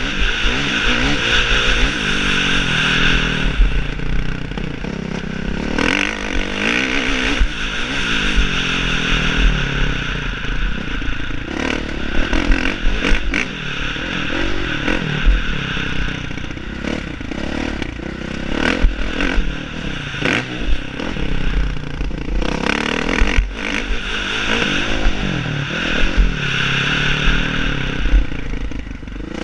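Motocross bike engine revving up and down over and over, its pitch climbing and dropping every few seconds as the throttle opens and closes, with scattered knocks and rattles.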